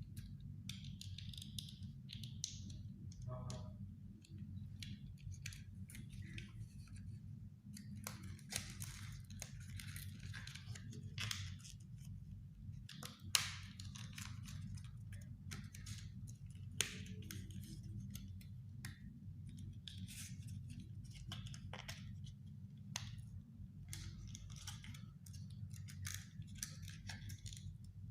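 Scissors snipping through the thin card of an empty cigarette pack: a string of short cuts and clicks with paper rustling between them, two of the snips sharper than the rest.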